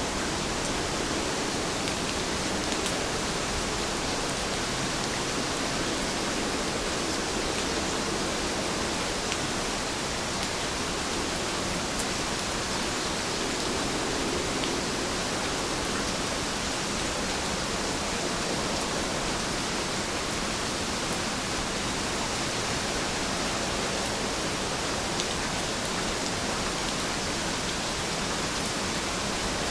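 Heavy rain falling steadily: an even hiss, with a few sharper drop ticks here and there.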